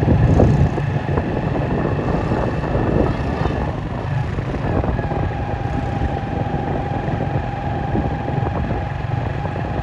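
Steady motor-vehicle noise: engines running and traffic going by, with a steady whine on top.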